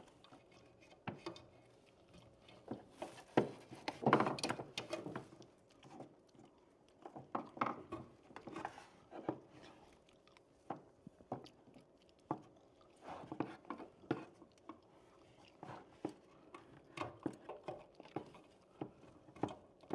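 Electrical wire being pushed and worked through a drywall opening into a plastic old-work electrical box: irregular scraping, rustling and clicking of wire against plastic and drywall, with the busiest stretch a few seconds in.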